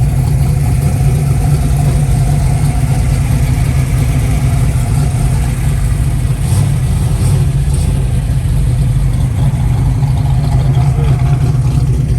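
A car engine running at low speed close by, with a steady deep rumble.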